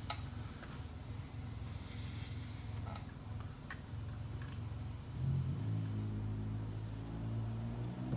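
Air hissing from a pressurized chainsaw crankcase as the inner PTO-side crankshaft seal is pried out, with a few light tool clicks. A steady low hum runs underneath and changes pitch about five seconds in.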